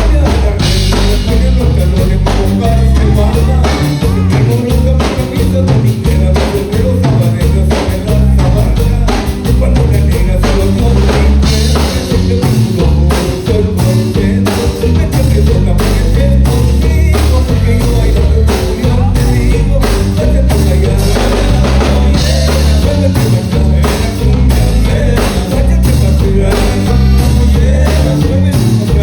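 A Tejano band playing live and loud, with a steady beat from the drum kit and bass, guitar, and a singer's voice.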